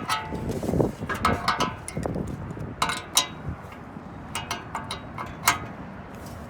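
Irregular sharp clicks and clanks of metal tools and parts being handled during work on a remote condenser fan motor, some strikes ringing briefly.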